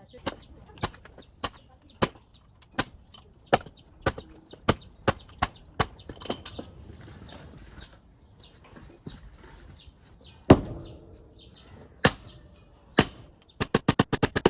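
Axe striking firewood: a run of light, evenly spaced blows about every half second, then a few single heavier blows, and a quick flurry of rapid knocks near the end.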